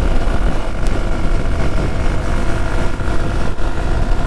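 Hero Xpulse 200 single-cylinder motorcycle running at road speed, with heavy wind rush on the rider's camera microphone.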